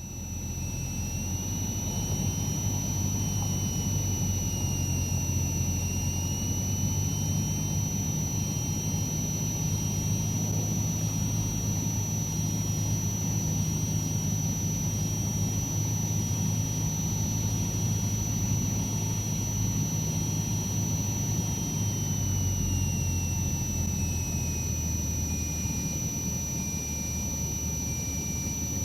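Cessna 152's four-cylinder Lycoming engine and propeller running steadily, a constant low drone. A thin high whine over it shifts up slightly about two seconds in and slides back down after about twenty-two seconds.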